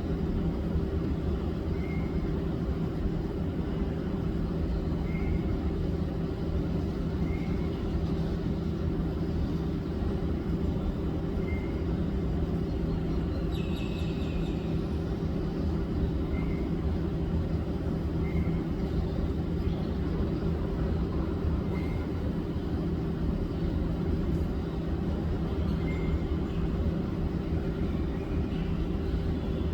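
White-rumped shama giving short single high call notes every two to four seconds, with one brief louder falling call about halfway through, over a steady low machine-like hum.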